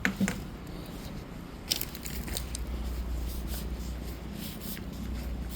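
Scattered light clicks and rustles of handling, a few sharp ticks among them, over a steady low hum.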